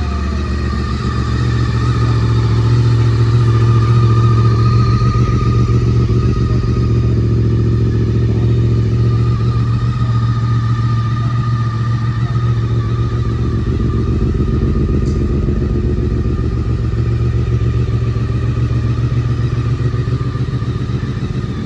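Honda motorcycle engine running steadily at an even speed, swelling slightly a few seconds in.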